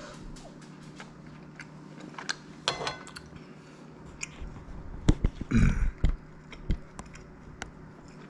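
A person chewing and biting a piece of grilled sirloin steak, with scattered small clicks and, about five to six seconds in, a cluster of louder knocks and thumps.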